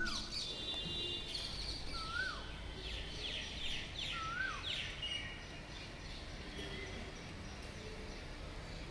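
Birds chirping over a steady low background hiss. One bird repeats a short call that rises and then drops, about every two seconds, among quicker higher chirps. The calls die away a little past halfway.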